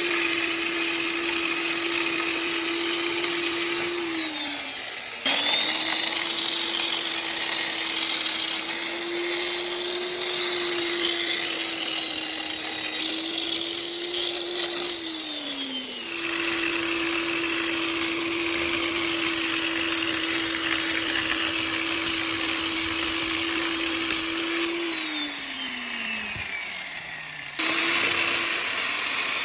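Electric STIHL chainsaw motor running freely at a steady pitch. It is switched off and spins down with a falling whine three times, each time starting straight back up.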